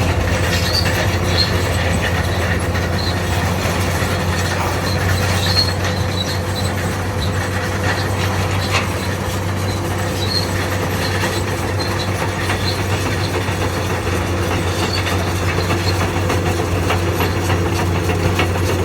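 Bulldozer running steadily while pushing soil: a low, constant diesel engine hum, with the steel crawler tracks clanking and giving short, high squeaks scattered throughout.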